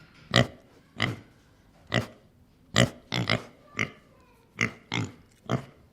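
A pig grunting in short, separate grunts, about ten of them, spaced irregularly around half a second to a second apart.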